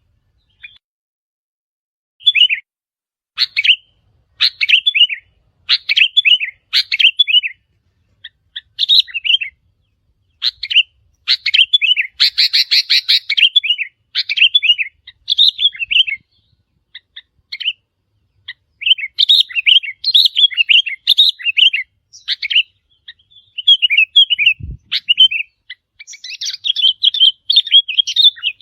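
Sooty-headed bulbul calls: short, bubbly phrases of quick chirps, repeated with brief pauses, denser and more continuous in the middle and near the end. There is a single low thump about three quarters of the way through.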